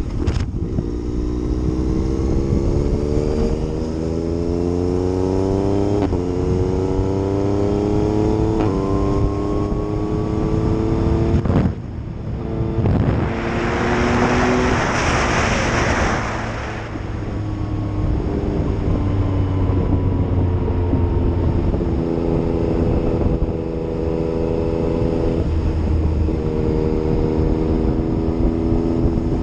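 Yamaha MT-09's three-cylinder engine accelerating through the gears: its pitch rises in each gear and drops at three upshifts in the first dozen seconds, then holds steadier. Midway a loud rushing hiss swells and fades over a few seconds.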